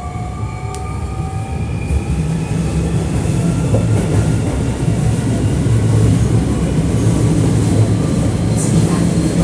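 Hankyu 1300 series electric train accelerating, heard from inside the car: the traction motor whine rises in pitch in several tones and fades out about two seconds in, while the deep running rumble of wheels on rail grows steadily louder. This is car 1858, a unit known for its unusual acceleration and braking sounds.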